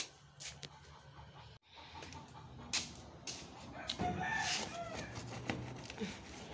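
A bird's call rising and falling briefly about four seconds in, over scattered light knocks and taps.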